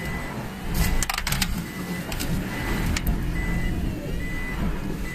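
A car's engine running with a low rumble, while a short high beep repeats roughly once a second, the pattern of a car's reverse-gear or parking warning beep. A quick cluster of sharp clicks comes about a second in, with one more click near three seconds.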